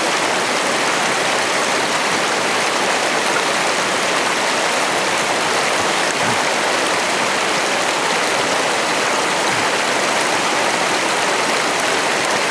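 Jacks River rushing steadily over rocks at a crossing, a loud even flow of water that stays the same throughout.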